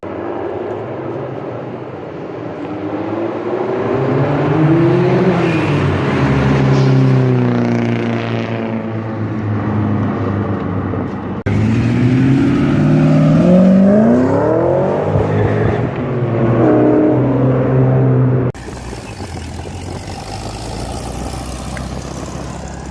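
Car engines revving and accelerating, their pitch rising and falling again and again. The sound changes abruptly twice, as if clips were cut together, and ends on a steadier engine note.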